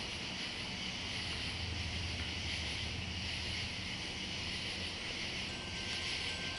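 Low, steady engine rumble that swells a little in the middle, over a continuous high insect drone.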